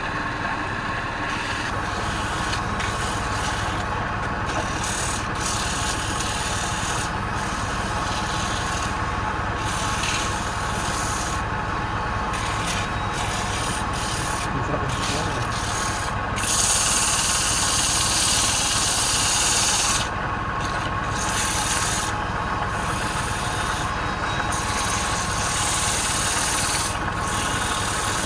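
Wood lathe running as a tool works the spinning wood: a steady machine hum under a scraping hiss that comes and goes in surges, loudest for a few seconds past the middle.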